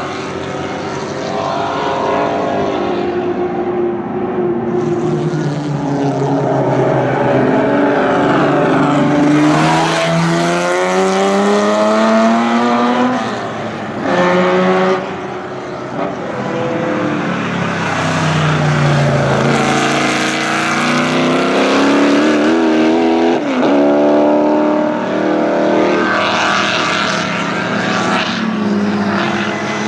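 Racing car engines at high revs on a circuit, their pitch repeatedly climbing through the gears and dropping off, with several cars going by in turn and a brief lift off the throttle about halfway through.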